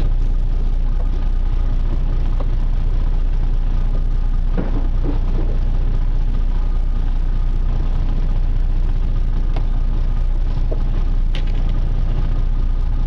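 A charter fishing boat's engine running steadily with a low rumble.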